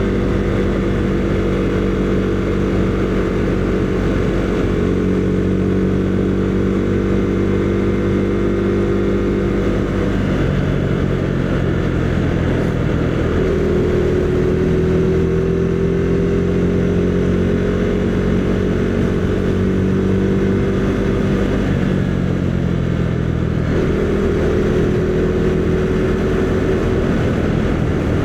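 Husqvarna Svartpilen 401's single-cylinder engine running while riding at road speed, over wind rush. The engine pitch shifts a few times, dropping about ten seconds in and rising again a few seconds later as the throttle and gears change.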